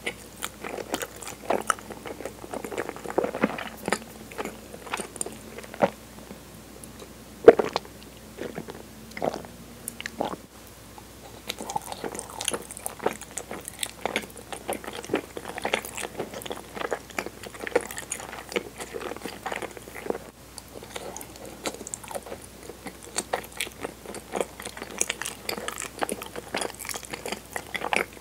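Close-miked chewing of soft, kinako-dusted cinnamon mochi: a dense run of small mouth clicks and smacks, with one sharper, louder click about seven and a half seconds in.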